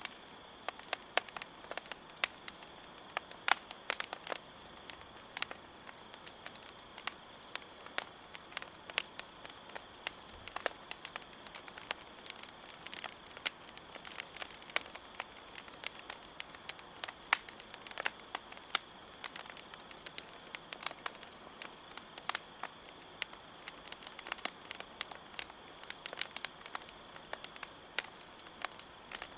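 Campfire crackling with many irregular sharp pops, over a steady high-pitched cricket chirring.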